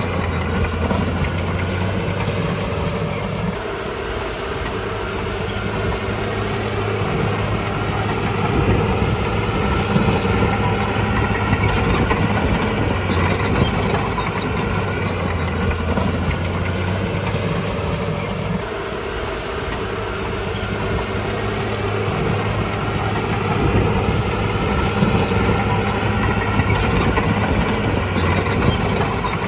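Diesel engine of a crawler bulldozer running steadily under work. Its low note shifts a few times, and there are a few sharp metallic clicks.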